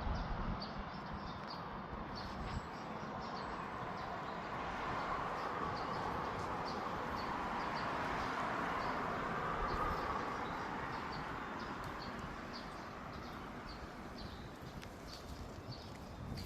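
Forest ambience: a bird's short, high chirps repeated about once or twice a second over a steady rushing noise that swells in the middle and fades toward the end.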